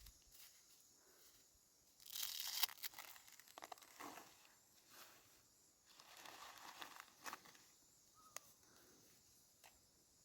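Faint crinkling and rustling handling noise in a few short bursts, about two, four and seven seconds in.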